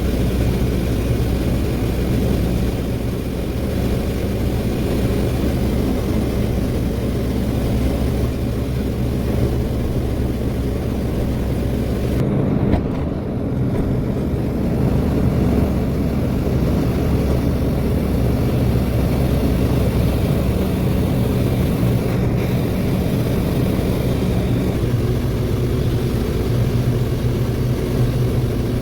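Ashok Leyland 2528 tipper truck's diesel engine running steadily under way, a loud low drone. The engine note shifts about twelve seconds in and again near the end.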